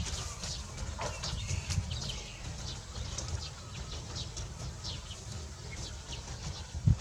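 Small birds chirping in short, high, falling notes, several a second, over a low rumble, with a dull thump near the end.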